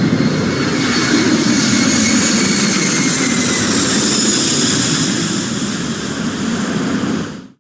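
Firefighting air tanker's engines passing low overhead: a steady rushing roar with a high whine that slowly falls in pitch, fading out abruptly near the end.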